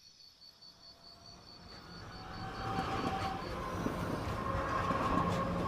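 A train approaching, its rumble growing louder over the first two to three seconds and then running steadily, with some faint tones above it. Insect-like chirping repeats faintly in the first half.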